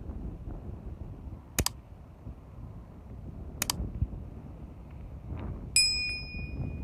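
Low rumbling noise, like wind on the microphone, broken by two sharp double clicks about two seconds apart. Near the end comes a short, high metallic ping that rings for under a second.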